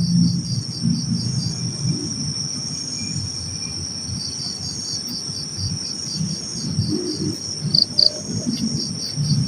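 Chorus of night insects, crickets among them: a steady high trill with a pulsed chirp repeating about three times a second, over an uneven low rumble.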